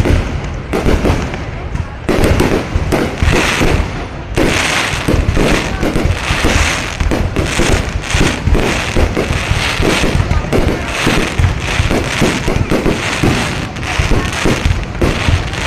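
Fireworks display going off continuously: many bursts and crackles overlapping with no pause, becoming denser about four seconds in.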